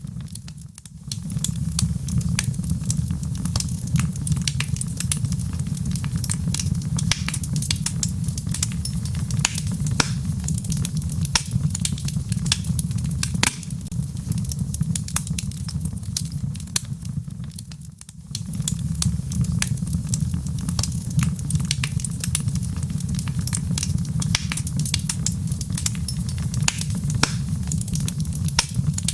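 Wood logs burning in a fireplace: a steady low rumble of flame with frequent sharp crackles and pops. The sound drops away briefly about a second in and again around eighteen seconds.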